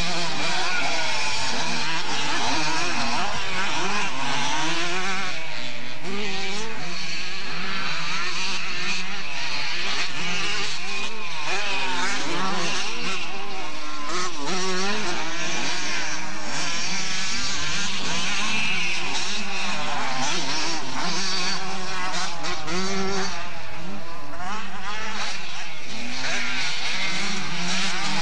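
Several motocross motorcycle engines revving up and down over one another, their pitches rising and falling constantly and without a break.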